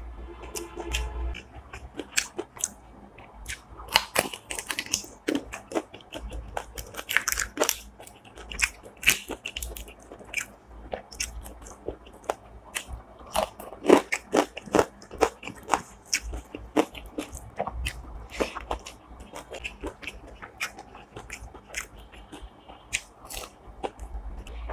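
A person chewing and crunching food close to the microphone, with many irregular crisp bites and crunches; one of the sharpest comes about halfway through.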